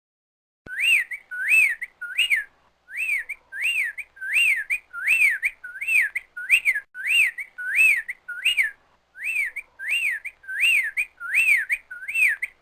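Eastern whip-poor-will singing, repeating its whistled 'whip-poor-will' phrase over and over, about one and a half phrases a second, each swooping up, down and up again. It starts about half a second in, with two brief breaks in the run.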